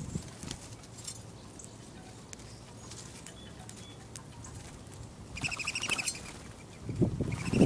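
Small songbirds calling: scattered short chip notes, then a quick run of rapidly repeated high notes about five and a half seconds in. Near the end a louder low rustle or thud comes in with more of the high calls.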